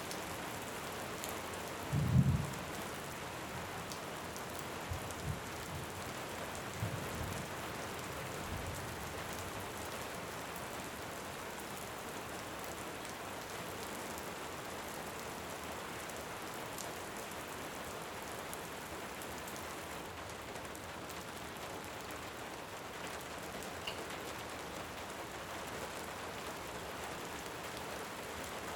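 Steady rain, an even hiss throughout. A few short low thumps come in the first several seconds, the loudest about two seconds in.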